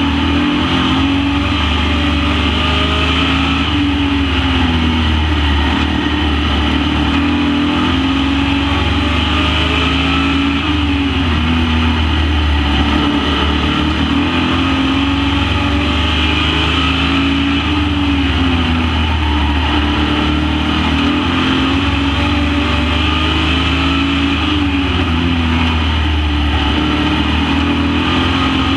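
Super Pro race truck engines running laps at full race pace. The engine pitch climbs and drops again and again, every few seconds, as they accelerate and ease off.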